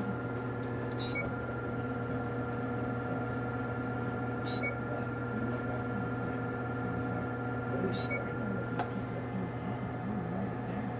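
Steady machine hum with several faint steady tones, broken by three short high chirps about three and a half seconds apart and a faint click near the end.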